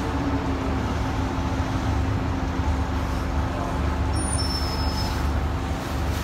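Inside an MTR M-Train carriage: a steady low rumble with a constant hum from the train, and a brief thin high-pitched tone about four seconds in.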